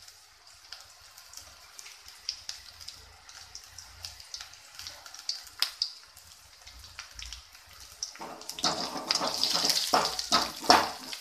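Sliced onions and green chillies sizzling in hot oil in a steel kadai, with scattered crackles. About eight seconds in, a perforated steel ladle stirs them, clattering and scraping against the pan; they are being sautéed until soft.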